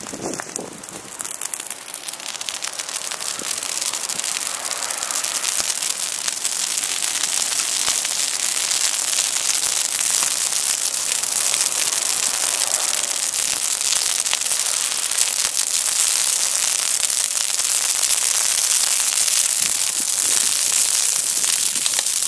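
Bonfire crackling and popping in a dense, irregular stream of sharp snaps, growing louder over the first several seconds and then holding steady.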